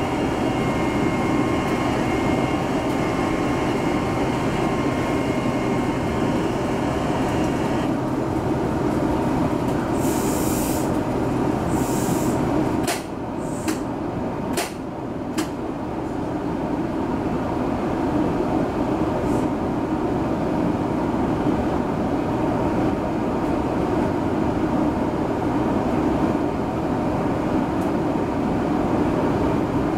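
Electric commuter train standing at a station, its on-board equipment giving a steady hum. About ten to twelve seconds in come a few short hisses of compressed air, then several sharp clicks, and around the same time a lower tone cuts out and the sound drops a little.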